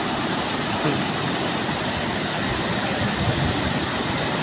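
Steady rushing of a waterfall, an even noise with a low rumble underneath.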